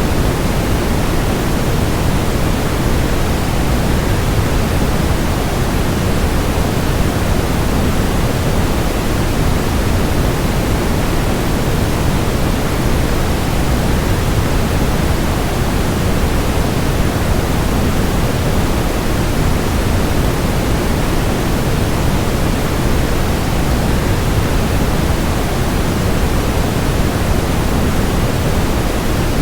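Constant rushing noise of a waterfall blended with steady white noise: an even, unbroken hiss, deepest and fullest in the bass, with no changes or separate events.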